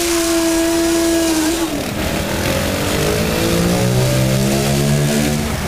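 Montesa trials motorcycle engine revving hard: it holds high revs, drops off about two seconds in, then climbs again over the next few seconds.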